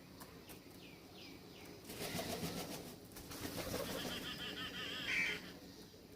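Birds at a feeder: a few short falling chirps, then a flurry of wingbeats about two seconds in as a bird flaps up or lands, followed by a rapid warbling call that is loudest near the end.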